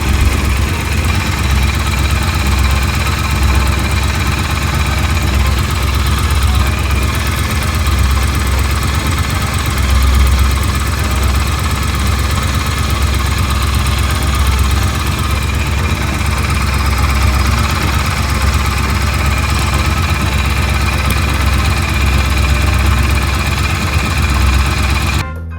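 Triumph parallel-twin motorcycle engine idling steadily; the sound cuts off abruptly just before the end.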